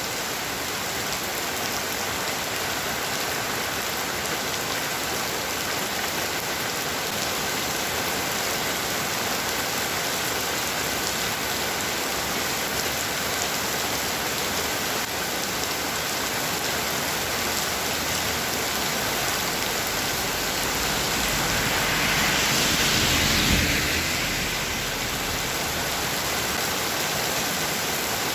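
Heavy rain falling steadily, an even hiss. About three-quarters of the way through, a low rumble and a louder hiss swell up for a few seconds, then settle back.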